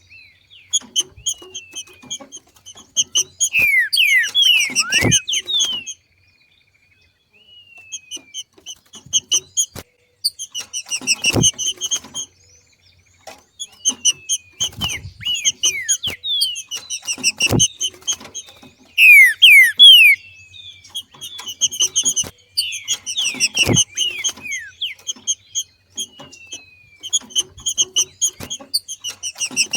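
Trinca-ferro (green-winged saltator) giving its rapid chattering 'macheado' call in repeated bursts of fast high notes mixed with downward-sliding whistles, separated by short pauses. The call marks a bird coming into breeding condition. A few sharp thumps are heard between bursts.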